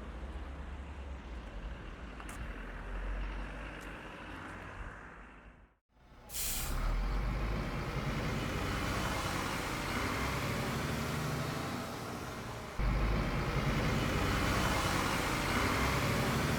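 Motor vehicle noise: a steady rumble that cuts out briefly about six seconds in, then a sharp hiss like an air brake releasing, followed by steady louder running that steps up again near the end.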